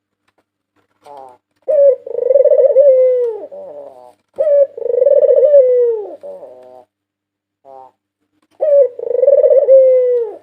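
White Barbary dove (puter putih) cooing: three long coo phrases, each a short note followed by a long coo that falls at the end, then a few short stuttering notes.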